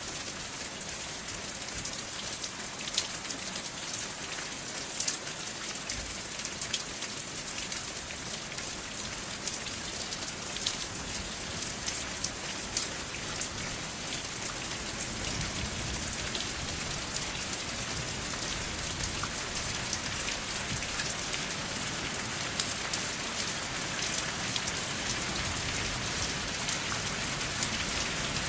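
Steady rain falling, an even hiss dotted with sharp ticks of individual drops, with no thunder. It grows a little fuller and heavier about halfway through.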